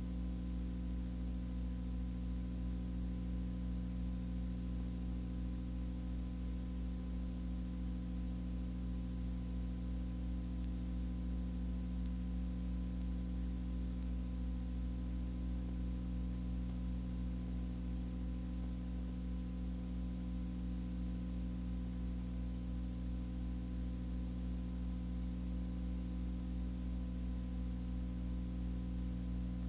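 A steady low hum made of several held tones, under a constant hiss, with no change in pitch or level.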